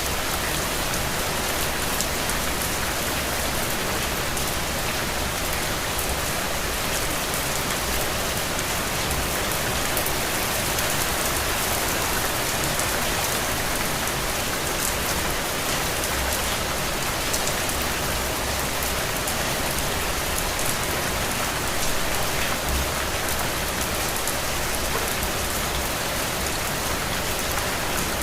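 Steady rain falling outdoors, a dense even hiss of drops with fine patters on surfaces and no thunder.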